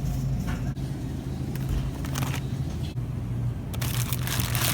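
Steady low hum of a car running, with crinkling and rustling of packaging that grows dense near the end.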